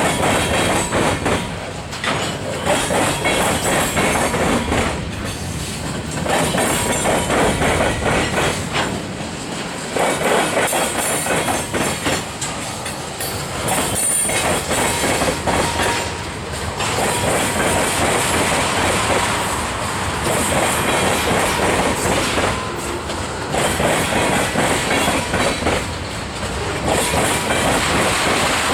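Freight train cars rolling past, their wheels clacking over rail joints in an uneven rhythm that swells and dips every second or two.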